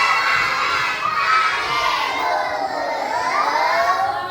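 A class of young children shouting loudly together, many voices at once.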